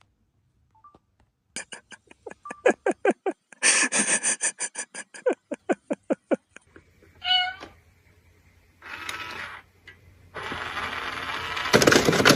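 A cat giving a rapid run of short, pitched calls, about six a second for several seconds, then a single longer call. A noisy burst follows near the end.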